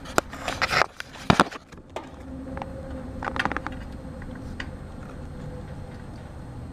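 Clicks and handling taps from working at an air conditioner's capacitor terminals with meter leads, a burst in the first two seconds and a few more near the middle, over a steady low hum.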